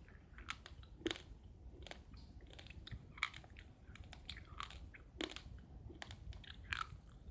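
Someone chewing uncooked rice grains: a run of sharp, irregular crunches, a few louder than the rest.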